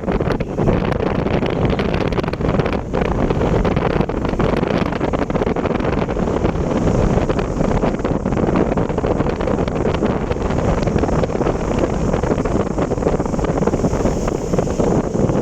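Wind buffeting the microphone over the steady rumble of a moving vehicle, loud and unbroken.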